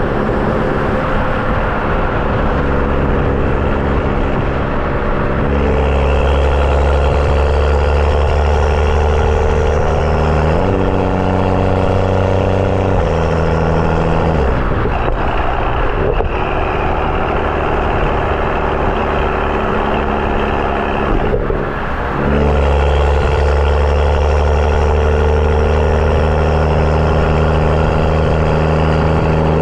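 BMW N55 turbocharged inline-six in a 335i with a catless downpipe and M Performance exhaust, driving along with a deep, steady drone. The engine note steps up and down a few times in the middle and dips briefly a little past two-thirds through before settling back into the drone.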